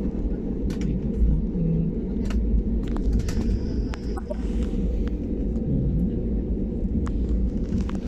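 Jet airliner cabin noise during takeoff: a steady low rumble from the engines and airframe, with frequent short rattles and clicks from the cabin.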